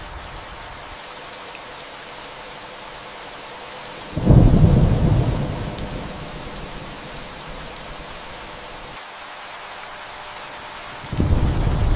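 Steady rain with two rumbles of thunder: one comes in suddenly about four seconds in and fades over a couple of seconds, the other starts near the end.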